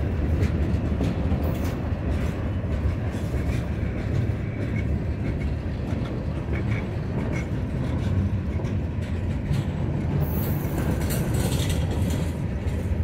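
Freight train gondola cars rolling past close by: a steady low rumble of steel wheels on rail, with scattered clicks and clanks. A brief hiss comes near the end.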